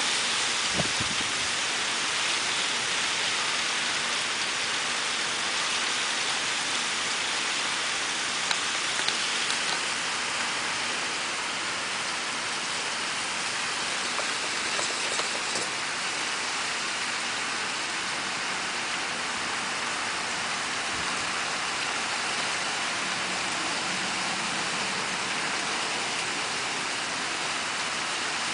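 Steady rain falling, an even hiss with a few louder ticks now and then.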